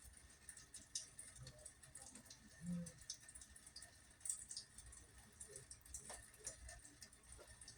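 Faint rain dripping and pattering, heard as scattered light ticks.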